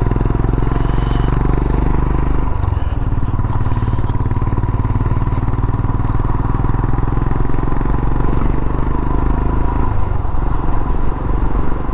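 Royal Enfield Himalayan's single-cylinder engine running steadily as the motorcycle rides along the road. The engine note dips briefly about three seconds in.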